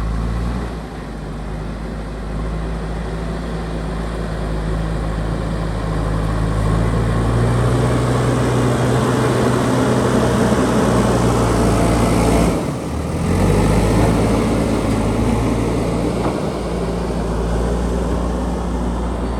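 JCB backhoe loader's diesel engine running steadily under load, louder for several seconds in the middle, with a brief drop about twelve and a half seconds in.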